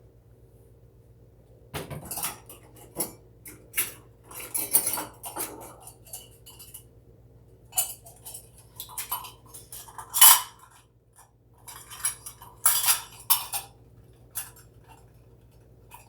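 Kitchen utensils and dishes clinking and knocking in irregular clatters while ingredients are measured and mixed. The sharpest knock comes about ten seconds in, with a busy run of clinks around thirteen seconds.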